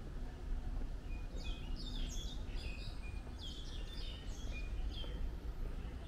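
Birds chirping in a quick series of short, high calls for a few seconds, over a steady low background rumble.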